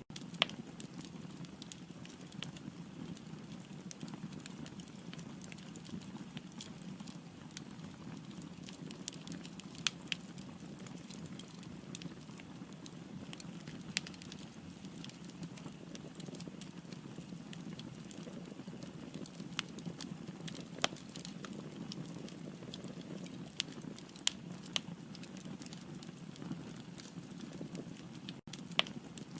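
Firewood burning in a fireplace: a steady low rush of flames with scattered sharp crackles and pops throughout.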